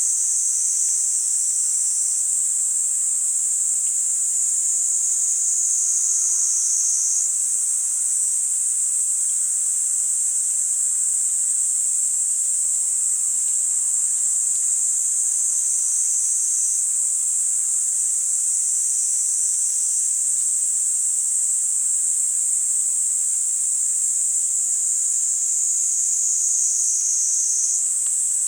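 Kaempfer cicadas (niiniizemi) giving a steady, high-pitched, unbroken buzz, with several insects overlapping so that the pitch shifts slightly now and then.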